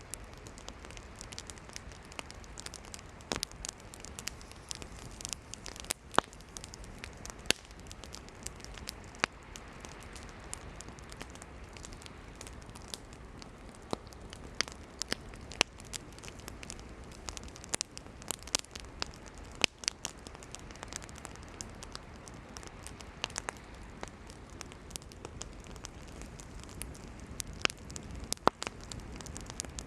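Campfire of burning firewood crackling, with frequent sharp, irregular pops over a steady low hiss of the flames.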